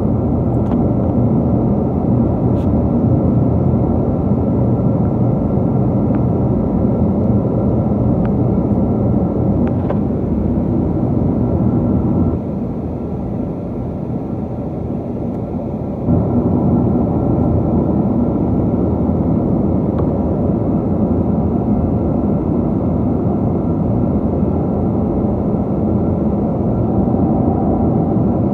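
Steady jet engine and airflow noise inside the cabin of a Boeing 777-222 airliner, with the level dipping for about four seconds midway before returning.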